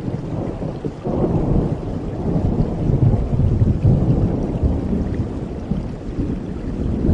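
Thunder rumbling over steady rain. The low rumble swells about a second in, is loudest midway and eases off near the end.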